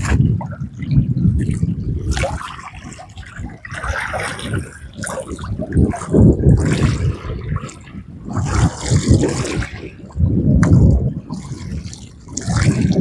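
Sea water washing against the shore in repeated surges, one every one to two seconds.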